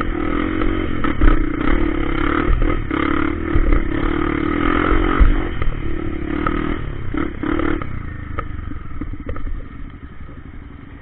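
Trail motorcycle engine running under way, with scattered clattering knocks. About eight seconds in it drops to a quieter, low, even putter.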